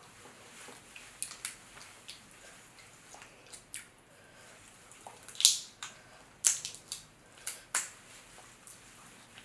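Close, wet eating sounds of crab being eaten by hand in seafood-boil sauce: irregular clicks and crackles of shell and sticky meat, with a few louder sharp cracks a little past halfway.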